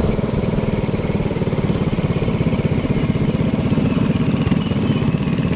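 Minibike's small engine running steadily, a fast even pulsing with no clear rise or fall in pitch.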